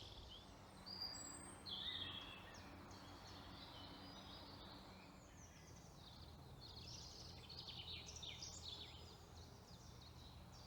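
Faint woodland birdsong: several small birds chirping and trilling on and off, over a faint steady low hum.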